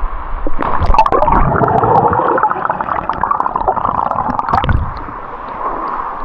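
Water splashing and gurgling around a swimmer in a plunge pool, with a sudden splash about a second in and another near five seconds.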